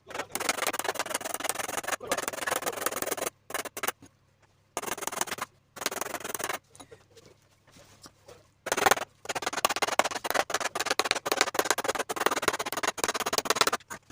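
Bursts of rapid clicking and crackling from hand work on a radiator's plastic top tank and its metal crimp tabs, each burst lasting one or two seconds with short pauses between.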